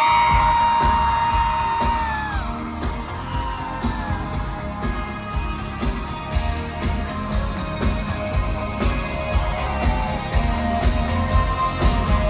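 Live pop band playing an instrumental passage through a stadium sound system, heard from the crowd with a steady thumping beat. A fan lets out a long high scream at the start that trails off after about two seconds, with shorter cries from the crowd later.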